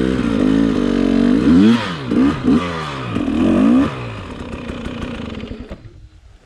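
Dirt bike engine running steadily, then revved up and down several times in quick succession before the sound fades away near the end.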